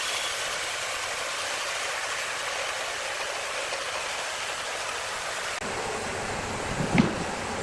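Steady hiss of a large sawmill saw running through wood, with a single knock about seven seconds in.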